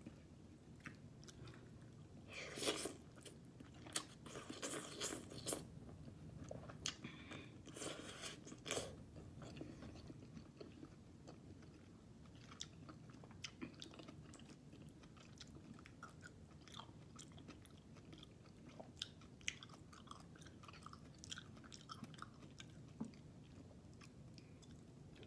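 Faint chewing and mouth noises of a person eating soft sautéed sardines with sweet potato leaves. Louder clusters come in the first nine seconds or so, then lighter scattered clicks.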